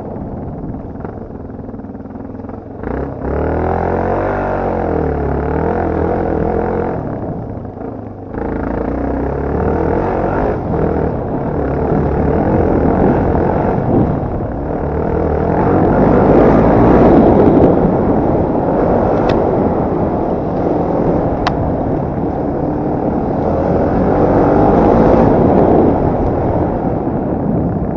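Motocross/enduro motorcycle engine being ridden hard, revving up and down with short throttle-offs a few seconds apart and rising to its loudest stretches later on. Two sharp clicks are heard in the second half.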